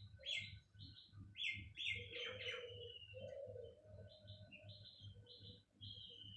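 Small birds chirping: short, high chirps repeated several times a second, with a longer falling note about two and a half seconds in and again near the end.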